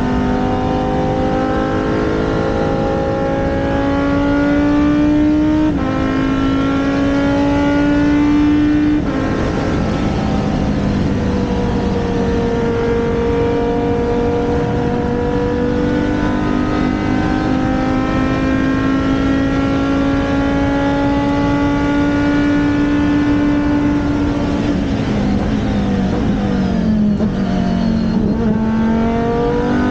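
Race car engine running at speed on track, its pitch climbing slowly and dropping sharply twice in the first ten seconds as it shifts up. It then holds a long steady pull, dips late on, and rises again near the end.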